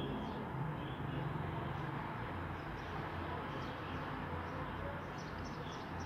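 Small birds chirping faintly now and then, more often near the end, over a steady low background rumble.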